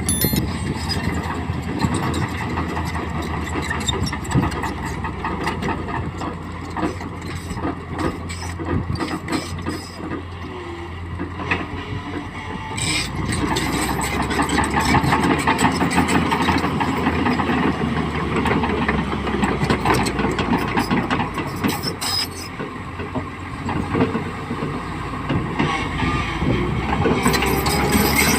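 Tata Hitachi EX200LC excavator's diesel engine running while it works, growing louder about halfway through and again near the end, with scattered short clanks.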